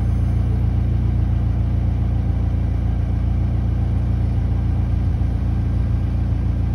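McLaren 720S twin-turbo 4.0-litre V8 idling steadily while the car stands still, a deep even rumble.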